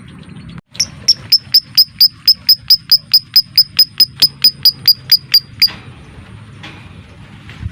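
Lovebird giving the rapid 'ngetik' call: a fast, even run of about twenty sharp, high chirps, roughly four or five a second, starting about a second in and stopping after about five seconds, with fainter chirps from other birds before and after.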